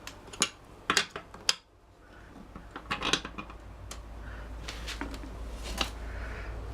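Metal tyre levers clicking and clinking against a motorcycle wheel rim as the tyre bead is levered over it: several sharp, irregular knocks, with a low hum underneath in the second half.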